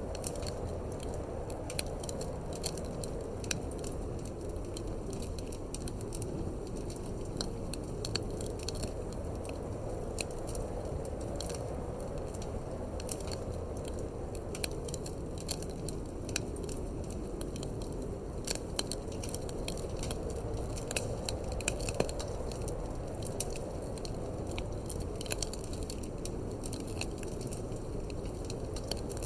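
Wood fire in a fireplace crackling, with frequent irregular sharp pops and snaps, over a steady low rush of wind.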